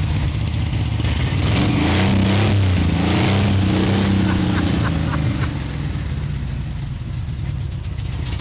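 Kit car's engine running, revved up about a second and a half in and then settling back to a steady idle over the next few seconds; a bystander likens its sound to a 454.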